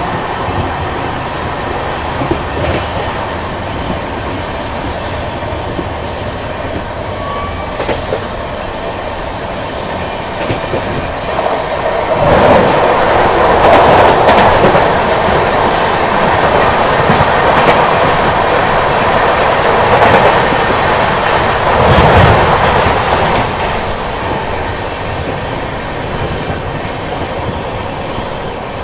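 Double-decker express train running at speed, heard from its open coach door: a steady rumble of wheels on track with clickety-clack. It grows clearly louder about twelve seconds in, as another passenger train passes close alongside for about ten seconds, then settles back to the steady run.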